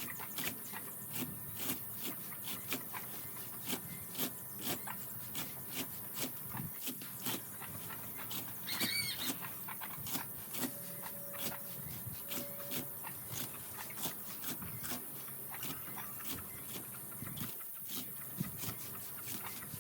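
Pigs eating, with a dense, irregular run of chomping clicks throughout. One short squeal comes about nine seconds in.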